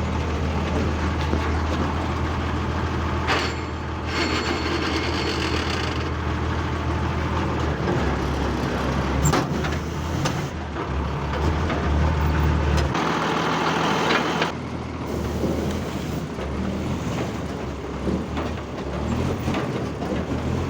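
REO 6x6 army truck's engine running with a steady low drone that eases off about thirteen seconds in. Bursts of hiss come a few seconds in and again as the drone drops.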